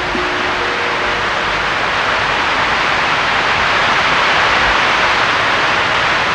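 A steady rushing noise that swells a little around the middle, with the last held notes of a soft music cue fading out in the first second.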